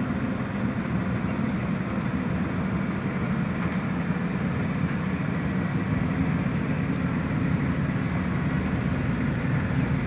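Steady engine and road noise of a motor vehicle being driven.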